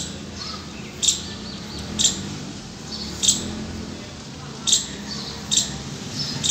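A bird chirping over and over, short sharp high chirps about once a second, over a low steady background hum.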